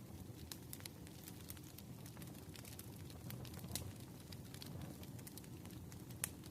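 Crackling fire with rain ambience: a low steady rumble with irregular sharp pops and snaps, the loudest pop near the end.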